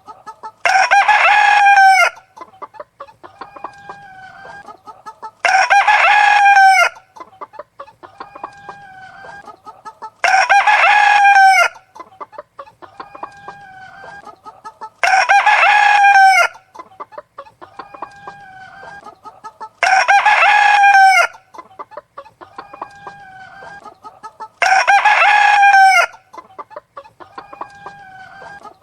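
Rooster crowing six times at even intervals of about five seconds, each crow about a second and a half long, with softer clucking between the crows. The same pattern repeats each time.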